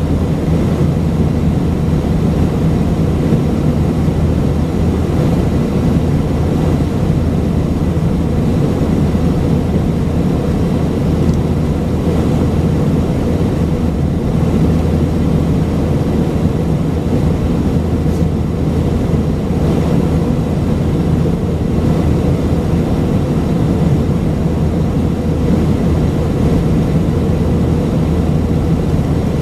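Airbus A319's IAE V2500 jet engines running steadily, a constant low drone with a steady hum heard inside the passenger cabin.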